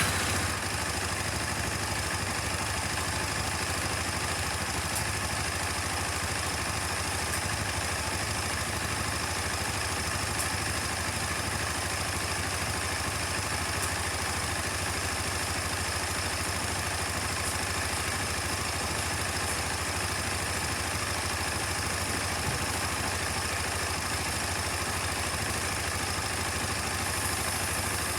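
KTM 250 Adventure's single-cylinder engine idling steadily, freshly started.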